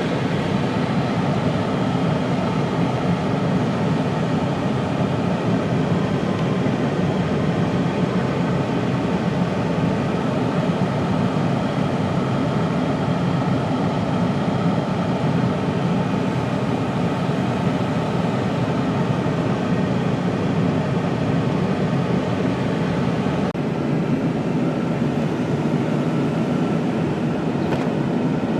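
Steady low rumble of a vehicle in motion, heard from inside: road and engine noise holding an even level throughout.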